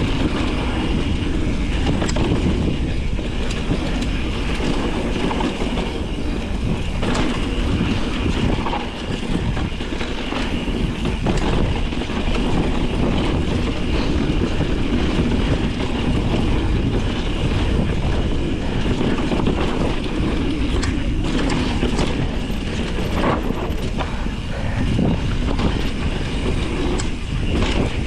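Mountain bike rolling along a dirt trail: steady tyre rumble and wind on the microphone, with frequent clicks and rattles from the bike.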